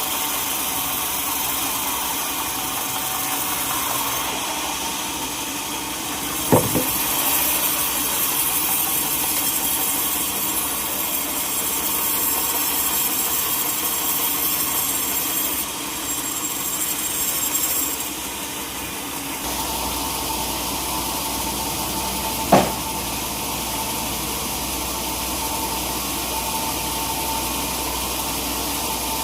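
Sawmill saw running steadily as it cuts through a teak log, with two sharp knocks, one about a quarter of the way in and one about three-quarters in. The sound of the machinery changes suddenly about two-thirds of the way through.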